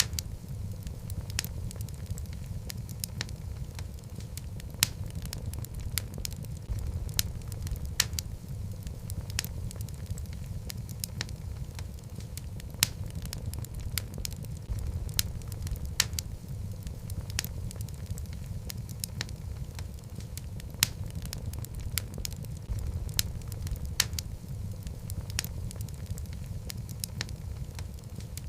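Wood fire of burning logs in a fireplace crackling: a steady low rumble of the flames with frequent sharp, irregular pops and snaps.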